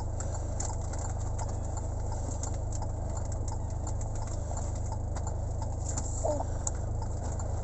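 A vehicle engine drones low and steady, with small rattling clicks scattered through it.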